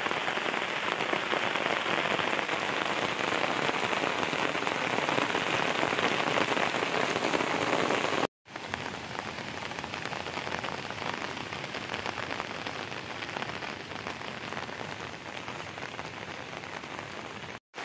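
Steady rain falling on wet, muddy ground, an even hiss. It drops out for a moment about eight seconds in, then carries on a little quieter.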